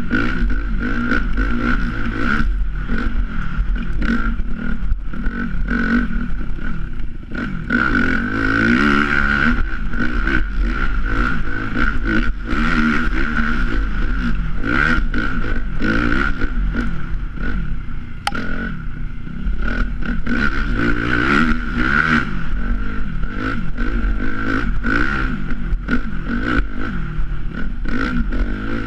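Dirt bike engine running under way, revving up and down with the throttle so its pitch keeps rising and falling.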